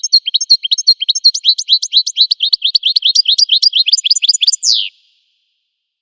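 Finch song: a fast, even trill of repeated down-slurred notes, about seven a second, ending in one longer falling sweep a little before five seconds in, where the song stops.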